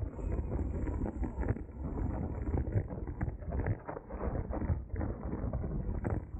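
Wind buffeting the microphone of a camera carried on a racing bicycle while riding, an uneven rumble that swells and dips.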